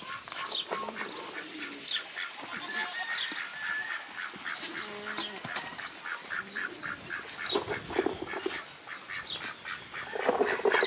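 Domestic waterfowl calling: a busy run of short quacks and honks through the whole stretch, with a few longer held calls.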